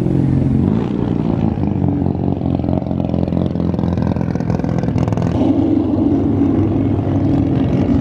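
Car engines running as cars drive slowly past at low speed, with a different engine note taking over about five and a half seconds in.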